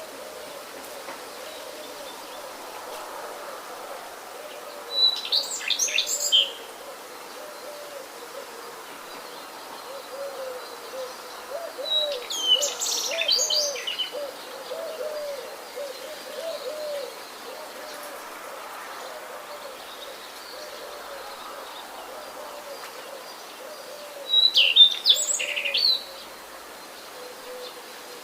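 Birds calling: a low call repeats over and over throughout, and three bursts of higher, quick birdsong stand out, about five, twelve and twenty-four seconds in, over a steady background hiss.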